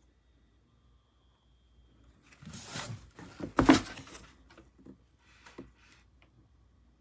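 Handling noises: a couple of seconds of rustling with one sharp knock about three and a half seconds in, then a few lighter clicks.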